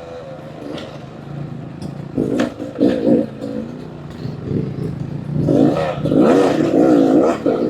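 Dirt bike engine revving in short blips, the pitch rising and falling, loudest in the last couple of seconds, with a few sharp clicks.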